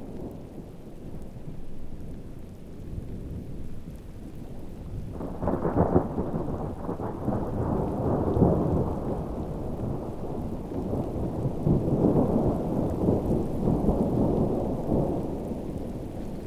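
Thunderstorm: low thunder rumbling over steady rain, with a louder peal breaking about five seconds in and rolling on, swelling and fading, until near the end.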